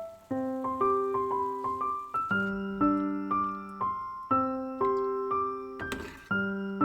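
Background music: a gentle piano or electric piano playing repeated chords and notes, with a brief rustling or brushing noise about six seconds in.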